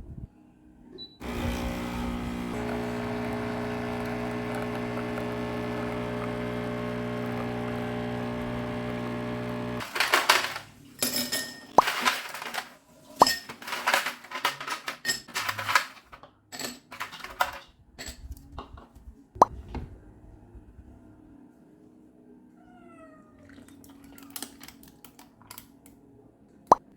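An electric kitchen appliance hums steadily for about nine seconds and then stops. Kitchen clatter of clicks and knocks follows, then a few short gliding squeaks near the end.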